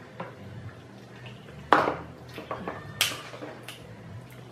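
Sharp clicks and knocks of a hard crab claw shell being worked at to break it open, with utensils and dishes clinking. Two louder knocks come just under two seconds and about three seconds in.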